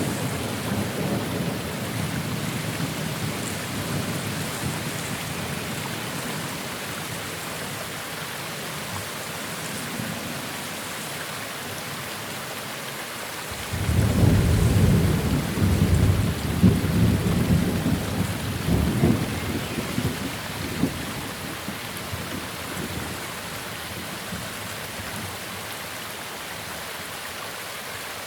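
Steady rain with thunder. A rumble dies away over the first several seconds; then, about halfway through, thunder breaks suddenly and rolls on in a long, uneven low rumble that fades over several seconds.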